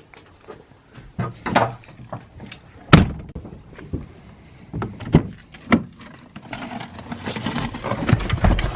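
A series of sharp knocks and thuds, the loudest about three seconds in, followed by a low rumbling noise that grows in the last couple of seconds.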